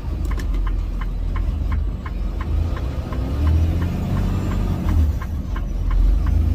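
Semi truck's diesel engine rumbling steadily, heard inside the cab, with a turn signal ticking about three times a second; the engine pitch slides up and down briefly around the middle.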